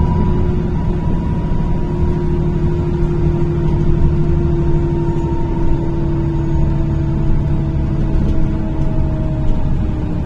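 Inside a NefAZ-5299 city bus: engine and drivetrain running steadily, with a whine that falls slowly in pitch as the bus slows.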